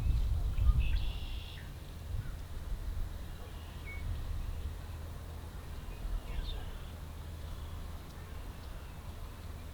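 Outdoor ambience: a low rumble, heaviest in the first second or so, with a few short, faint bird calls about one, four and six and a half seconds in.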